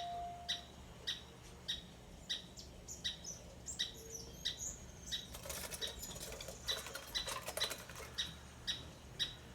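A trapped bird flapping frantically against the inside of a light fixture, a dense fluttering run in the second half. Throughout, a bird gives short, sharp chirps about twice a second.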